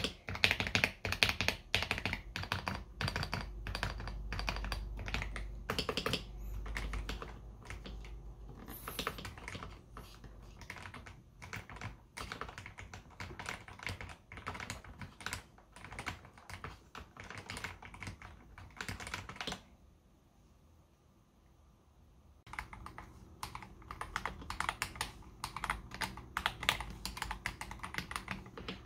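Steady typing on a KBD67 Lite R3 mechanical keyboard fitted with lubed AKKO CS Jelly White switches. The keystrokes stop for about three seconds near the end. Typing then resumes on the same keyboard with stock, unlubed AKKO CS Jelly Pink switches.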